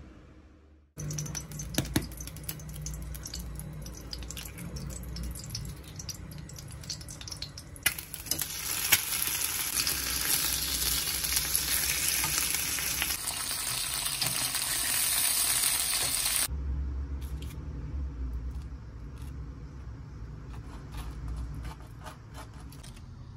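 Bacon strips and an egg frying in a pan: a dense sizzling hiss that sets in about eight seconds in and stops abruptly about sixteen seconds in. Before it come scattered clicks and light knocks, and after it a quieter stretch with a knife spreading butter on toast.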